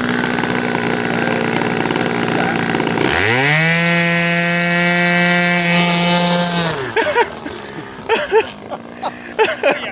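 Electric motor and propeller of an RC model plane throttling up: a steady hum, then about three seconds in a whine that rises fast, holds steady at high throttle for about three and a half seconds, and winds down. This is a takeoff run that fails, with the landing gear held on by a wrapped rubber band.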